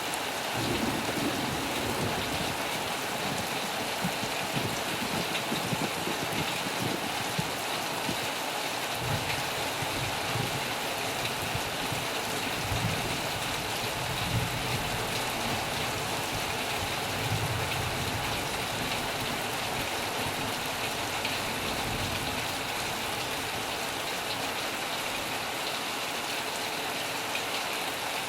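Heavy rain falling in a steady, dense hiss, with low rumbles of distant thunder swelling and fading several times until a few seconds before the end.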